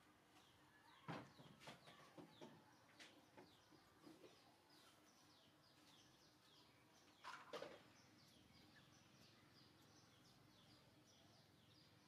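Faint outdoor background with a small bird chirping over and over in short, high, falling notes, several a second. A few soft knocks sound about a second in and again about seven seconds in.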